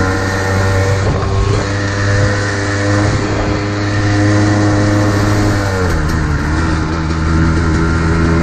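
Modded Kawasaki KDX220R single-cylinder two-stroke dirt bike with an FMF exhaust, running at steady high revs under way, with rushing noise over the microphone; the engine note drops about six seconds in as the revs fall.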